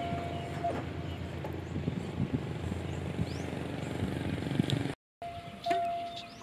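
Distant diesel railcar approaching, a low steady rumble mixed with outdoor air noise. A steady high tone broken by short gaps sounds for the first moment and returns after a short dropout about five seconds in.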